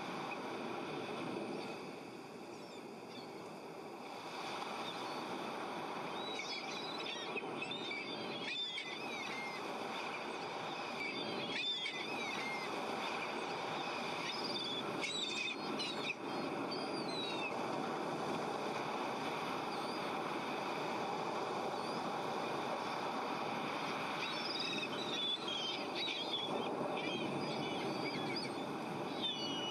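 Birds calling in short clusters of chirps over a steady rushing background noise.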